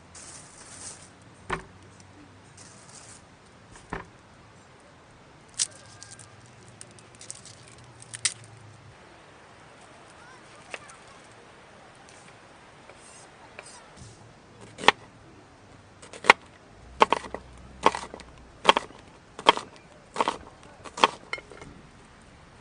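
Sharp chopping knocks on wood: a few scattered taps, then a run of about nine strokes, a little under a second apart, in the second half.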